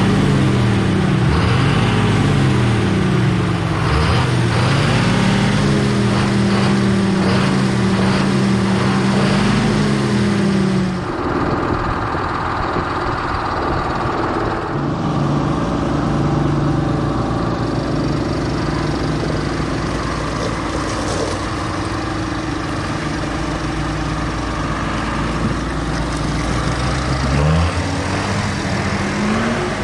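John Deere 6520 tractor's six-cylinder diesel engine running, its pitch rising and falling several times as it revs. About eleven seconds in it changes abruptly to a steadier, lower running, and it revs up again near the end.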